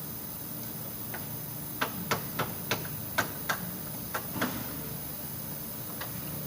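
A run of about eight sharp taps or knocks, roughly three a second, lasting a couple of seconds, over a steady low hum.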